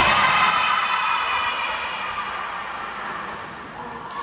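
Several voices shouting together in an echoing indoor sports hall, dying away over about three seconds.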